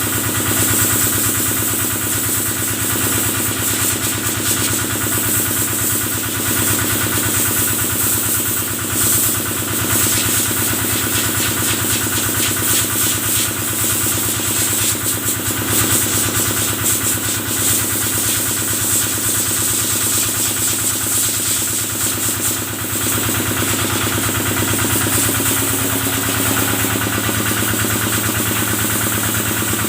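Kubota stationary engine running steadily, driving the water pump of a cattle-washing sprayer; its note shifts slightly near the end.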